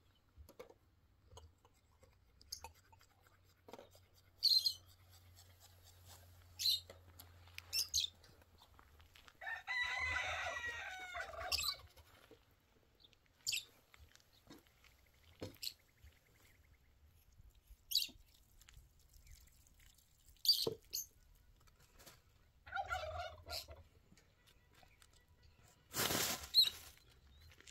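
A rooster crows once, about ten seconds in, among scattered light clicks and knocks. Near the end there is a short, louder noisy burst.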